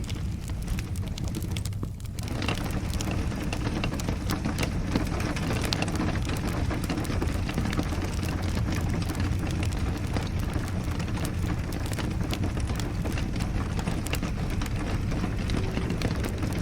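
Wood fire crackling with many sharp pops, over a steady wash of rain and a low rumble.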